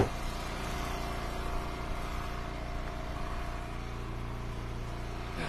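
Eastonmade hydraulic wood splitter's gas engine running steadily, with one sharp knock right at the start. A deeper low hum comes in for about a second near the end.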